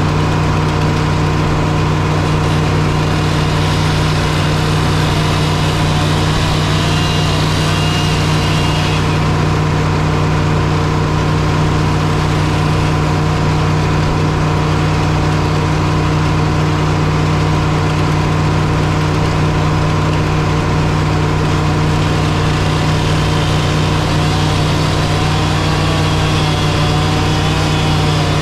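A heavy engine running steadily at a constant speed, its deep hum unchanging, with a faint wavering whine above it.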